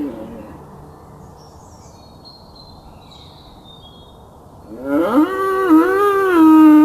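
Long, drawn-out animal calls: one ends at the very start, and another begins about five seconds in and holds a steady pitch for about three seconds. Faint high chirps sound in the quieter gap between them.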